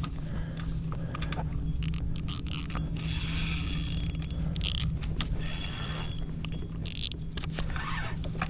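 Fishing reel being cranked to reel in a hooked fish, its gears clicking and whirring in spells, over a steady low hum.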